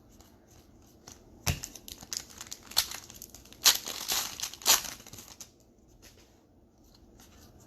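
Foil trading-card pack wrapper torn open and crinkled: a sharp snap about a second and a half in, then a run of crackling rustles that fades out about five seconds in.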